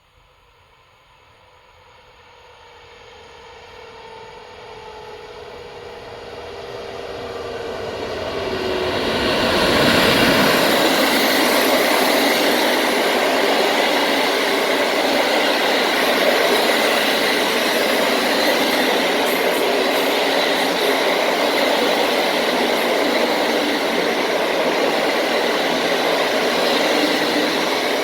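Train approaching and passing close on the rails: the sound swells over about ten seconds, with a faint whine drifting slightly down in pitch, then holds as a steady loud rush of wheel and rail noise as the train goes by.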